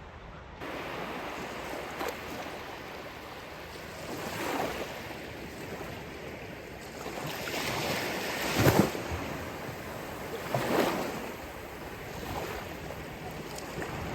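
Waves breaking on a shore: a steady wash of surf that steps up just after the start, with several waves swelling and breaking in turn, the loudest a little past halfway.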